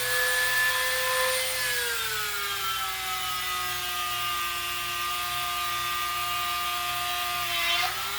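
Dremel rotary tool drilling holes in wood, its motor whining steadily. The pitch sags about a second and a half in as the bit bites into the wood, and rises again near the end.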